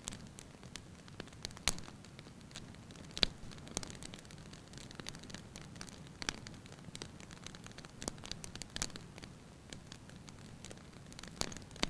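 Wood fire burning in a fireplace: a steady low hiss with irregular crackles and sharp pops, a few louder snaps standing out.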